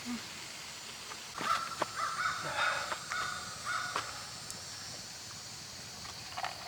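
Crow cawing: a run of harsh calls starting about a second and a half in and lasting a few seconds.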